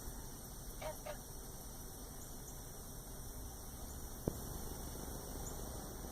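A bird gives two faint, short falling chirps about a second in, over a steady low hum; a single sharp click comes about four seconds in.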